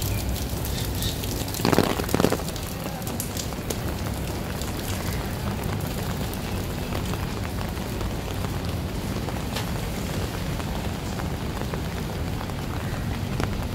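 Steady rain falling on wet pavement, with scattered drop ticks and a low steady rumble underneath. About two seconds in, a brief louder burst of noise stands out.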